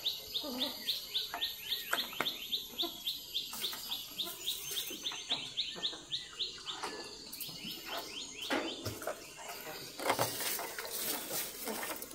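A bird chirping in a rapid, even run of short falling chirps, about five a second, which fades out about two-thirds of the way through. Toward the end come scattered light knocks and rustling.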